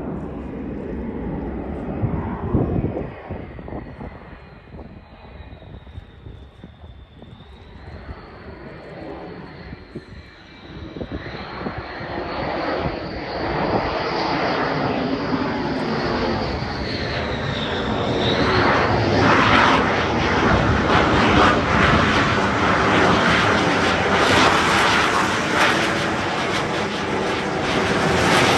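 Jet noise from a Dassault Rafale C's twin Snecma M88 turbofans, fainter at first, then growing steadily louder from about ten seconds in and staying loud to the end as the fighter comes close.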